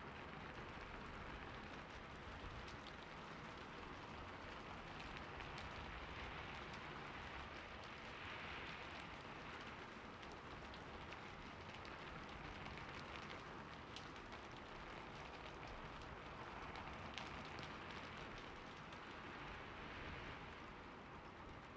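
Steady rain falling on a roof, an even hiss with scattered individual drop ticks.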